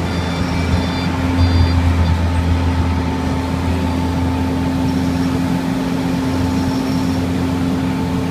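Jet-Tetlaw road planer running with a loud, steady engine hum. A reversing alarm beeps about every half second for the first two seconds, and a fainter beep returns briefly later on.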